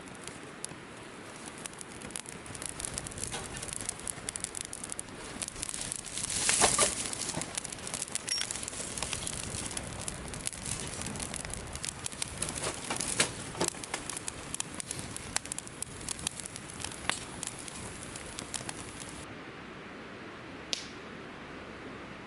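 Wood fire crackling, with scattered sharp pops and a brief louder burst of noise about six and a half seconds in.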